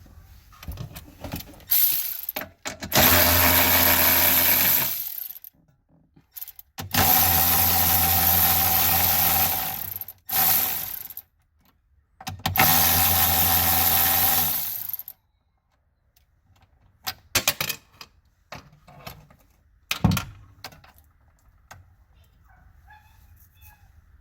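Electric drill-driver running in three long bursts of about two seconds each, with short blips between, backing out fasteners during high-voltage battery removal. Near the end come a few clicks and a knock from parts being handled.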